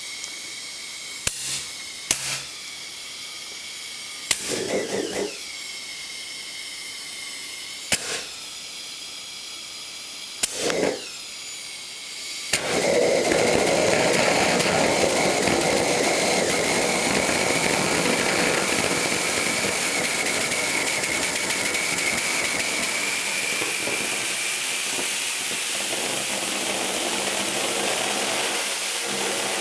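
Homemade aerosol-can rocket engine: a few sharp clicks and short sputtering bursts, then about twelve seconds in it lights and burns with a loud, steady rushing hiss.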